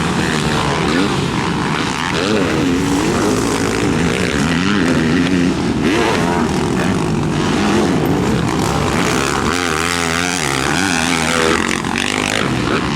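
Motocross dirt bike engine revving up and down as the throttle opens and closes, its pitch rising and falling repeatedly.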